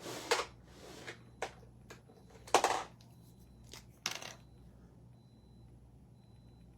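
Markers being rummaged through and picked up, plastic clattering and rustling in several short bursts, the loudest a little over two and a half seconds in, then stopping about four and a half seconds in.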